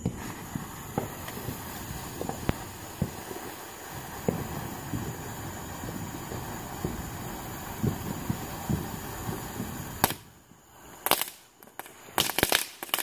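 Fireworks going off: scattered pops and bangs over a steady background hiss. After a sudden break about ten seconds in, a rapid run of sharp crackling pops follows near the end.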